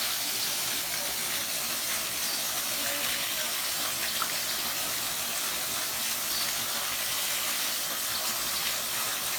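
Rushing water, a steady, even rush with no break.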